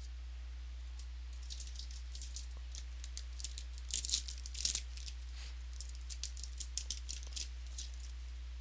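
Cardboard trading cards being flipped and slid through by hand: a loose run of quick flicks and rustles, busiest about four to five seconds in. Under it runs a steady low electrical hum.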